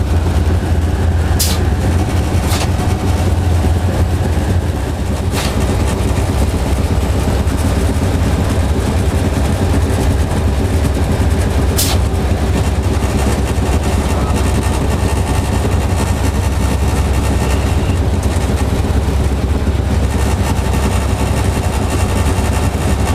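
Diesel locomotive engine idling, a steady deep hum, with a few sharp clicks.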